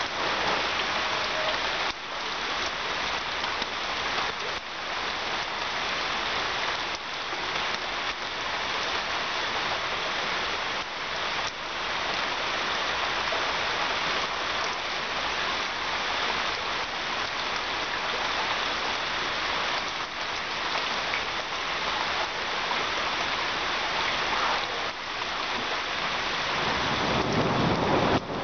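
Heavy rain falling steadily on a wet paved patio and garden. Near the end, a low rumble of thunder builds up.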